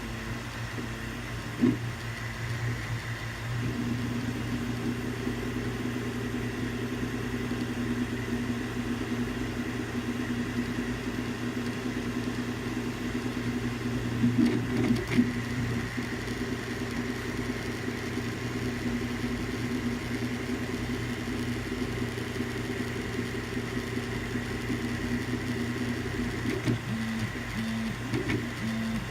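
Creality CR-10S 3D printer running a print: its stepper motors give a set of steady tones over the constant hum of its cooling fans, changing pitch as the moves change near the end, with a few brief knocks.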